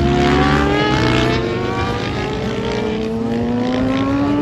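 Racing motorcycle engine accelerating, its pitch climbing steadily.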